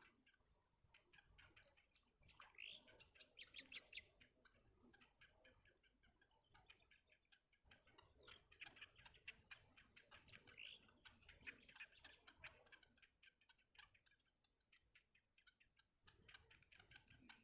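Faint, rapid high chirping of nestlings begging for food at the nest, coming in busy bursts a few seconds in and again near the middle, over a steady thin high whine.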